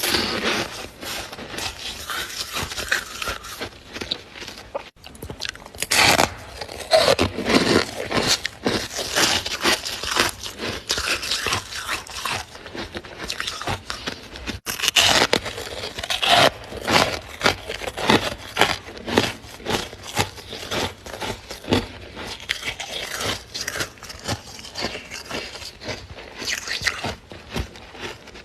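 Freezer frost being scraped loose and crunched between the teeth: a long run of crisp, irregular crunches and scrapes, with louder clusters twice.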